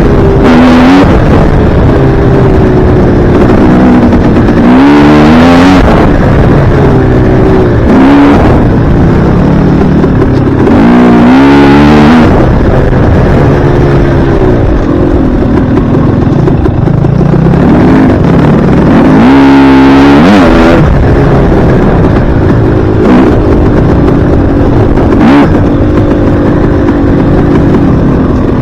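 Dirt bike engine revving hard through the gears, its pitch climbing and dropping again in repeated surges, most clearly around 5, 12 and 20 seconds in. A steady, loud low rumble runs underneath.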